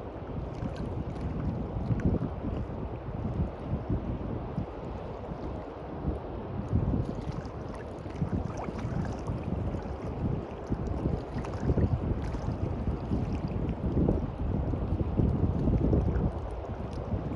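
Wind buffeting the microphone in uneven gusts over the wash of waves on the beach.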